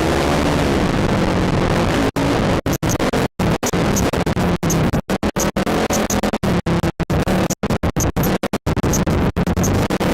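Quad ATV engine revving up and down. From about two seconds in, the sound keeps cutting out for split seconds, dozens of times, with a click each time it comes back.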